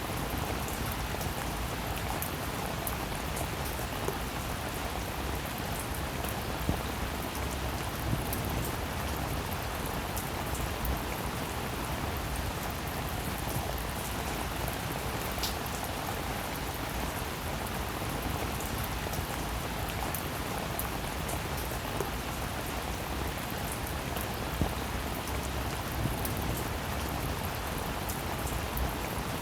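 Steady rain falling, a continuous patter with the sharper ticks of single drops standing out here and there.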